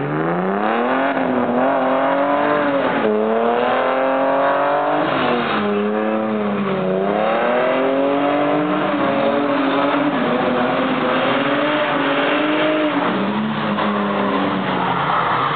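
BMW 2.5-litre straight-six engine revving hard under drift driving. Its pitch climbs, drops sharply and climbs again several times, holds fairly steady in the middle, then falls away near the end.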